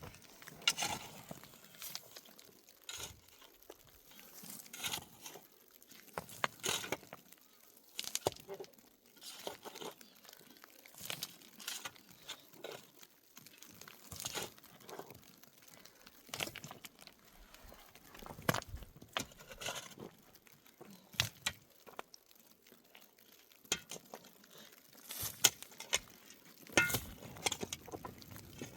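Scattered clicks, knocks and crinkling of small objects being handled, coming irregularly every second or so, with a cluster of louder knocks near the end.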